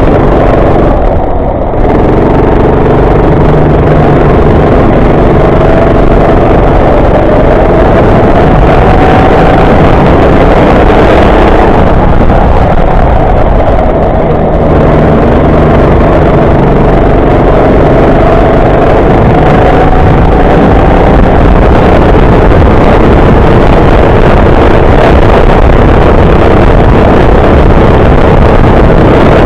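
Go-kart engine running hard, its pitch rising and falling as it speeds up and slows, easing off briefly about a second and a half in and again about fourteen seconds in.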